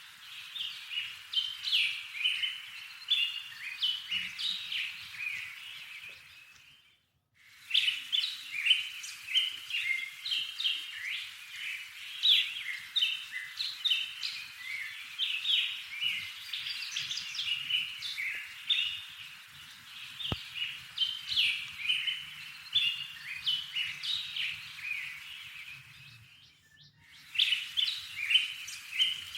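Small songbirds chirping busily in a dense run of short, high notes. The chirping breaks off briefly twice, about a quarter of the way in and again near the end.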